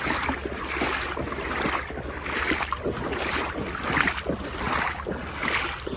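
Legs wading through knee-deep floodwater, a splashing swish with each stride about once a second, over a steady low rumble of wind on the microphone.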